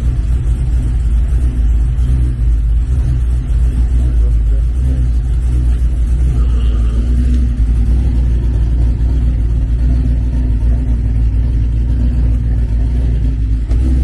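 Cadillac V's engine idling steadily just after a cold start in freezing weather, its badly fitted aftermarket exhaust giving a deep, even rumble.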